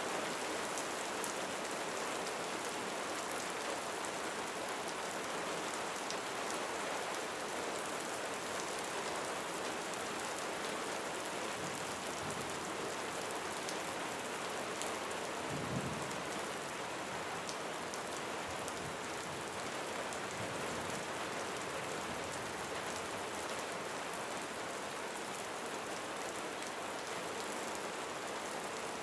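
Steady rain falling on a roof, an even hiss with scattered sharper drop ticks. A short low rumble of thunder comes a little past halfway.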